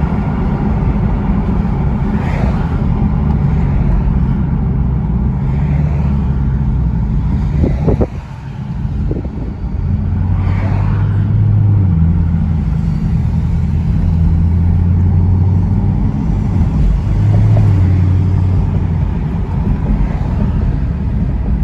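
Car engine running loud with a deep, low exhaust note that steps up and down in pitch a few times, dipping briefly about eight seconds in.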